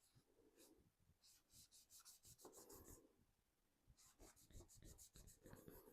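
Faint, quick scrubbing strokes on a 3D-printed plastic RC car body as paint weathering is worked onto it. There are two runs of rapid strokes, about ten a second, with a pause of about a second between them.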